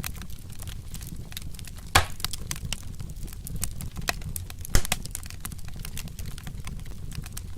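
Wood fire crackling with many small irregular snaps over a steady low rumble. Two sharper, louder pops come about two seconds and about five seconds in.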